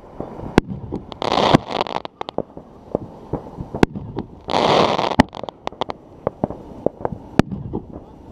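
Pyroco Brutus consumer firework cake firing: about five sharp bangs of bursting shells a second or two apart, with two hissing rushes of about a second each near the start and the middle, and smaller crackling pops in between.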